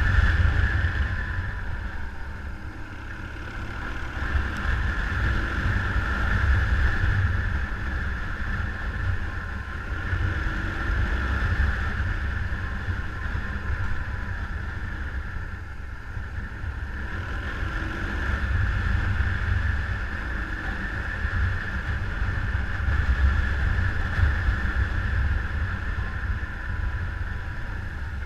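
Motorcycle engine running while riding, heard under a heavy, uneven wind rumble on the microphone, the loudness swelling and easing every few seconds.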